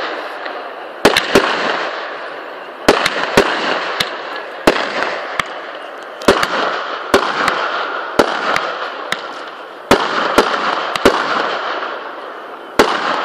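Fireworks display: aerial shells bursting one after another, about twenty sharp bangs, often two or three half a second apart, each trailing off in a fading crackle.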